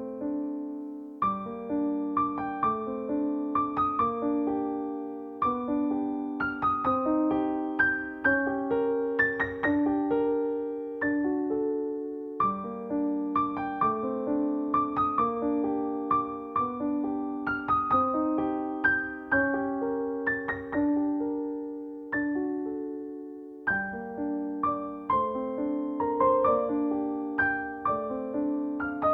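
Gentle background piano music: notes struck one after another in a slow melody, each fading away, with short pauses about a second in, near the middle and about three-quarters through.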